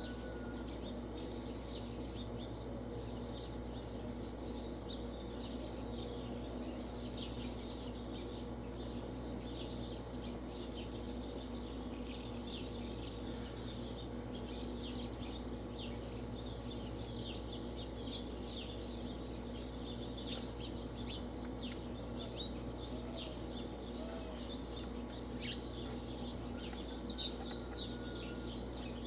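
A group of quail feeding, giving many short clucks and chips throughout, over a steady low hum.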